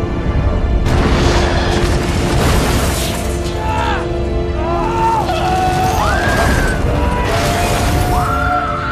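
Film soundtrack: a dramatic orchestral score mixed with deep booms and crashing, shattering impact effects. From about four seconds in come several rising-and-falling pitched sounds.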